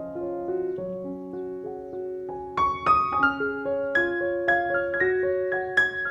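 Background piano music: a gentle melody of held notes, growing louder and brighter about two and a half seconds in.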